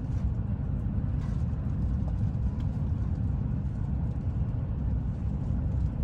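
Steady low rumble of the Whoosh high-speed train running, with a few faint ticks.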